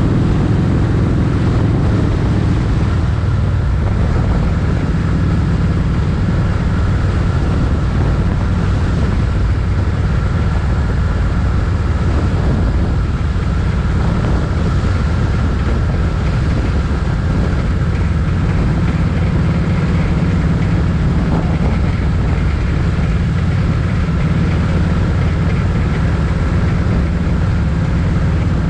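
Motorcycle engine running steadily while riding, with wind noise.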